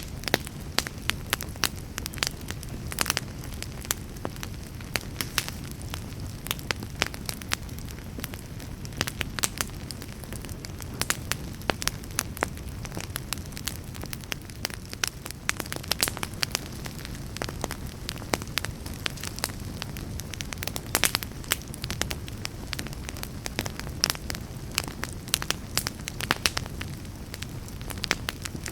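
Wood fire burning in a fireplace: a steady low rush of flames with frequent irregular sharp crackles and pops.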